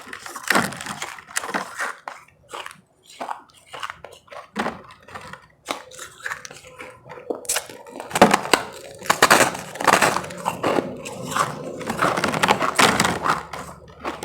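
Ice being bitten and chewed close to the microphone: dense, irregular crunching, busiest in the second half.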